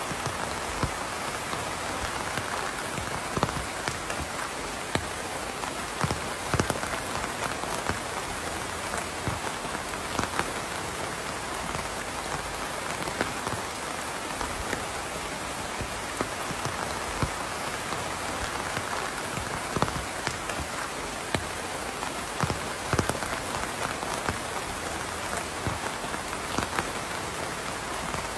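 Steady rain falling on a surface, a constant hiss with many individual drops ticking and pattering at irregular moments.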